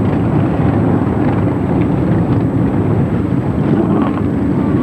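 Many motorcycle engines running together in a steady, loud, continuous din, with wind on the microphone.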